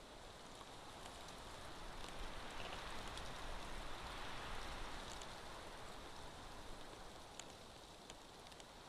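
Outdoor noise around a nest camera: an even hiss that swells for a few seconds in the middle and then fades back, with a few faint ticks.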